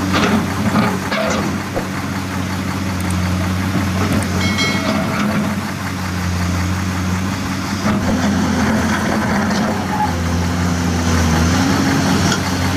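Sand-loaded dump truck's diesel engine running steadily at low revs, with scattered knocks and rattles. The engine note rises slightly near the end.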